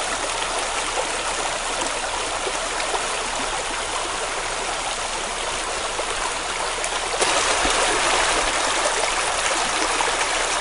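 Steady rushing noise like flowing water, with no birdsong heard. It gets louder suddenly about seven seconds in.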